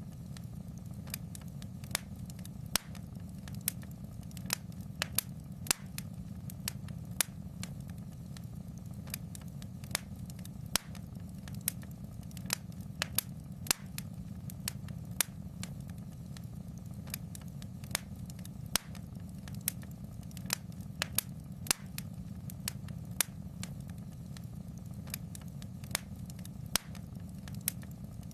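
Fire crackling in a fireplace: sharp, irregular pops and snaps, one to three a second, over a steady low rumble.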